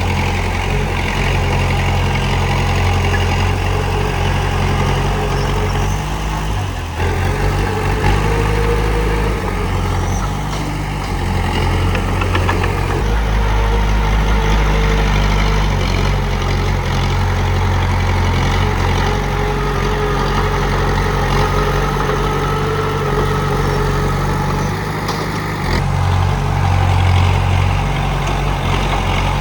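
Komatsu D31P bulldozer's diesel engine running steadily, its note shifting a few times.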